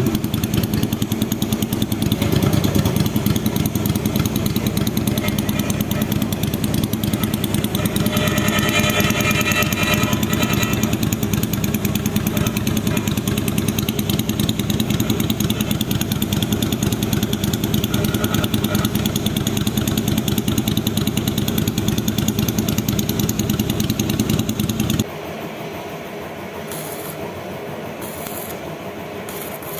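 Kaisar Ruby V250 motorcycle's 250 cc V-twin engine running steadily through its exhaust. It cuts off suddenly about 25 seconds in, leaving a much quieter background noise.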